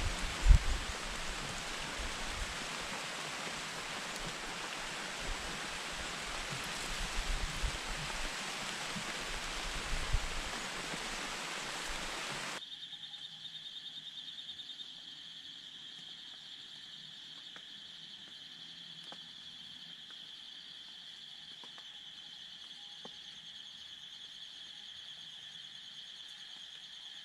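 Wind and leaves rustling with a few low bumps, then a sudden cut to a quieter outdoor background of steady high-pitched insect trilling.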